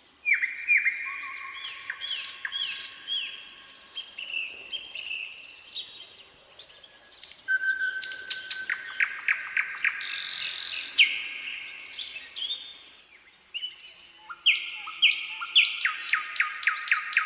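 Nightingale singing a varied string of phrases: runs of fast repeated notes, clear whistled notes and a brief harsh buzzy note about ten seconds in.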